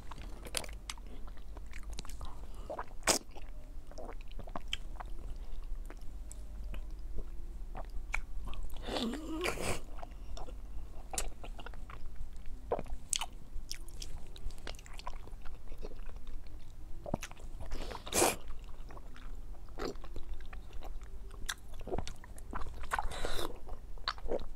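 A person eating a soft white food close to the microphone: wet chewing and biting with scattered mouth clicks and smacks, and a few longer slurping or sucking sounds.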